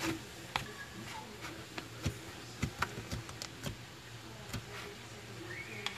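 Slime being squished and worked by hand, giving irregular small clicks and pops.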